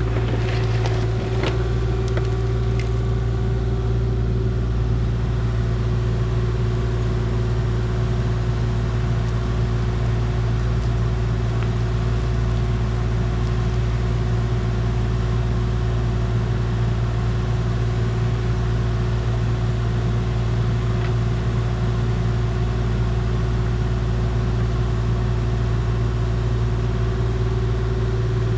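An engine running steadily at a constant speed, a low drone with an even hum that does not change.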